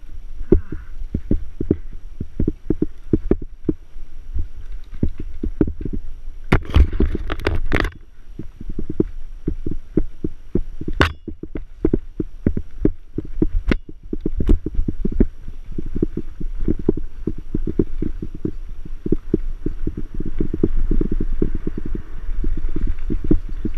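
A mountain bike ridden over rough trail: a rapid run of low knocks and thumps as the bike and camera jolt over the ground. There is a louder rattling patch about seven seconds in and a few sharp clicks later on.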